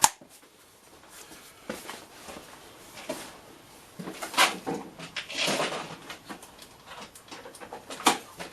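Scattered light clicks, knocks and short scraping swishes of small metal tools and stainless steel workpieces being handled on a workbench, with a sharp click at the start and another near the end.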